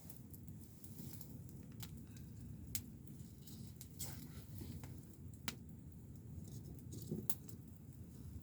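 Wood fire crackling: sharp pops at irregular intervals, about six in all, over a low steady rumble.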